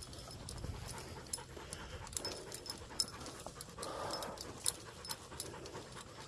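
A dog panting in soft, breathy swells, worn out on a long walk in the heat, with light crackling clicks of steps along the trail.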